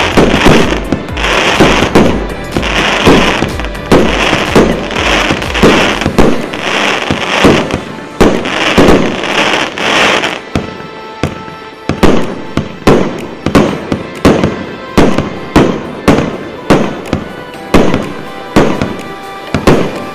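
Consumer fireworks cake, 1.25-inch calibre and 320 shots, firing a steady string of shots. In the first half each burst trails off into a dense crackle; about halfway through this changes to sharper single bangs, about one and a half a second.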